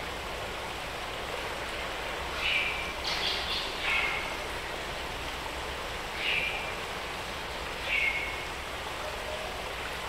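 Tropical forest ambience: a bird repeats a short call that drops in pitch, four times, over a steady background hiss.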